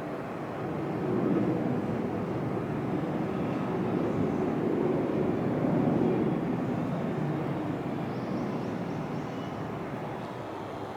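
Fighter jet's engine roar at takeoff, swelling about a second in and slowly fading toward the end.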